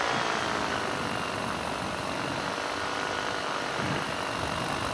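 Paramotor engine and propeller running steadily in flight, with a broad rush of air over it.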